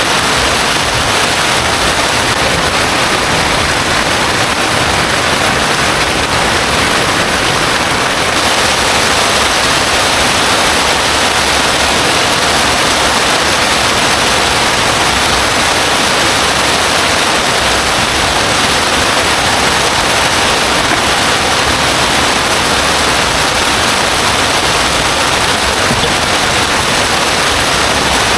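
Heavy rain pouring down steadily, a dense, unbroken hiss of water.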